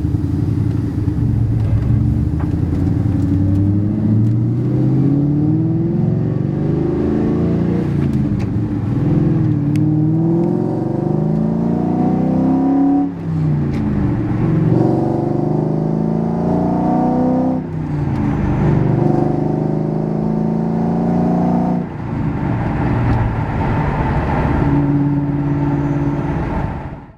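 A 2003 Ford Mustang Mach 1's 4.6-litre V8, fitted with aftermarket exhaust and manifolds, accelerating through the gears. The engine pitch climbs and then drops sharply at each of three upshifts, and settles into a steady cruise near the end.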